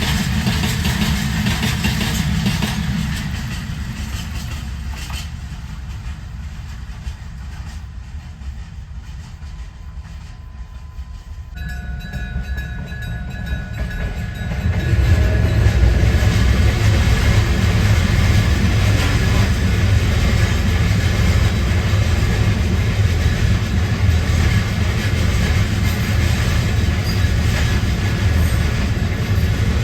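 Freight train rumbling and clattering along the rails, loud and steady from about halfway through. Before that a low rumble fades away, and a few steady tones start shortly before the train noise swells.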